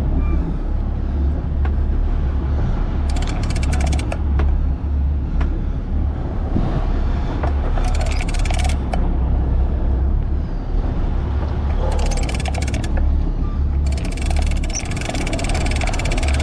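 Boat engine rumbling steadily at sea. Over it come repeated short bursts of rapid ticking from a big-game fishing reel being cranked as the angler pumps and reels in a large tuna.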